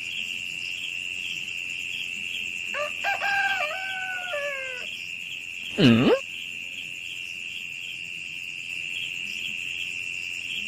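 A steady high-pitched whine throughout. About three seconds in comes a stepped, crowing call like a rooster's, and a short loud swooping sound near six seconds.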